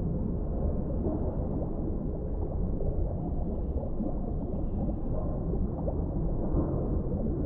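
Underwater ambience: a steady low rumble of deep water with small crackles and gurgles throughout.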